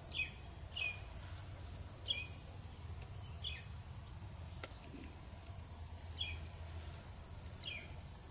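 A bird repeating short, quick chirps that slide downward, one every second or so, over a steady high insect buzz; a single faint click sounds about halfway through.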